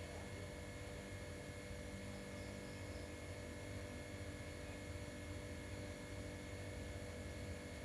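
A steady low hum with several constant tones over a faint hiss, unchanging throughout.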